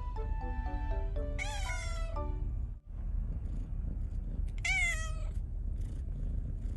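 Siamese cat meowing twice, long drawn-out meows about a second and a half in and again near five seconds, over background music.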